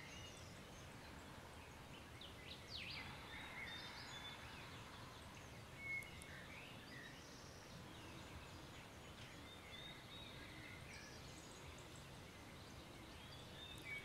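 Quiet ambience: faint, scattered bird chirps over a low, steady background noise, with one slightly louder chirp about six seconds in.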